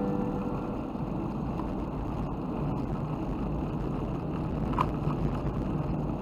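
Steady low rumbling noise with no music or voice, with a few faint short ticks about five seconds in.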